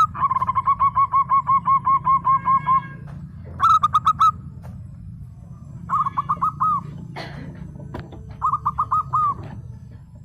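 Zebra dove (perkutut) cooing in runs of quick staccato notes: one long run at first, then three shorter bursts. A steady low rumble sits underneath, and a brief noisy sound comes about two-thirds of the way through.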